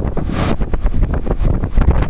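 Storm-force wind buffeting the microphone in a continuous low rumble, with a brief rush of hiss about half a second in.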